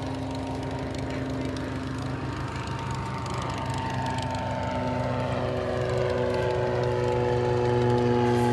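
Piston engine of a propeller airplane running steadily, growing gradually louder as it draws closer.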